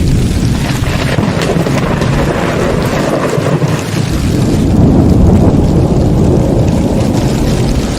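Heavy rain falling steadily with thunder rumbling low; the rumble drops away briefly and swells again about halfway through.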